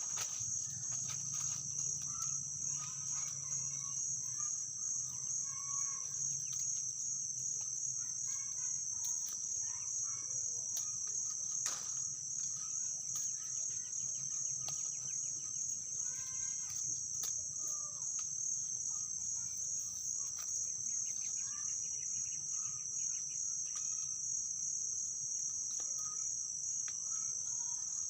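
Steady, high-pitched, slightly pulsing drone of an insect chorus, with short scattered chirps of birds.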